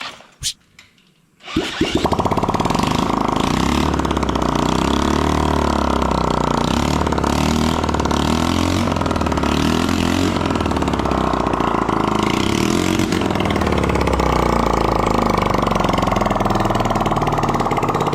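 1974 Honda XL100's small single-cylinder four-stroke engine firing up after a brief quiet moment and running on, its speed wavering at first and then settling.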